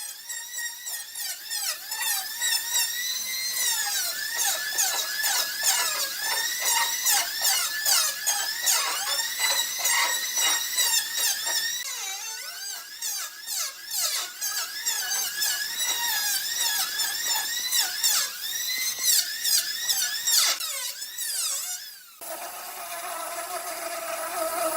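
High-speed power tool whining as it cuts wood, its pitch dipping and recovering again and again under load, with sharp clicks. It cuts off abruptly near the end, followed by a lower, steadier sound.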